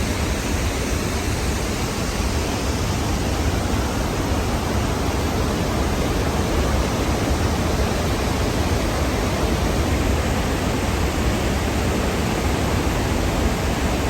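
Steady roar of the Khone Phapheng falls on the Mekong, an even rushing of water from deep rumble to hiss with no breaks.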